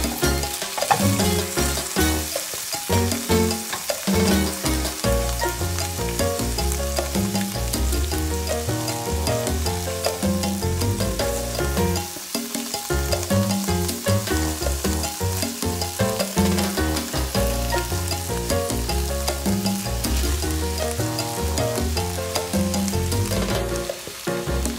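Kimchi and diced Spam sizzling and crackling in a hot nonstick frying pan as they are stir-fried, with cooked rice tipped in about halfway through. Background music plays throughout.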